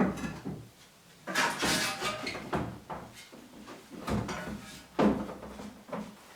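A series of knocks and a scraping clatter as household things are moved and handled, like cupboard doors or drawers being opened and objects shifted. The longest clatter comes about a second and a half in.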